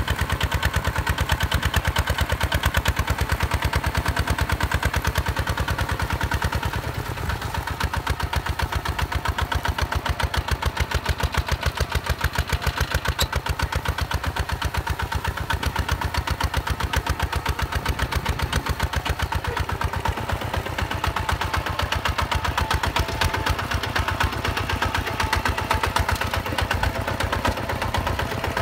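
Single-cylinder diesel engine of a Hinota 155 DI paddy tractor running steadily, with a fast, even chugging of firing pulses. It eases off slightly about seven seconds in.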